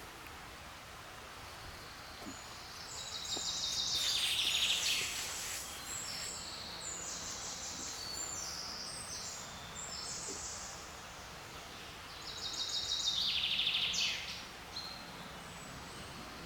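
Forest songbirds singing over a steady background hiss: a loud, rapid trill stepping down in pitch about three seconds in and again near twelve seconds, with shorter high song notes in between.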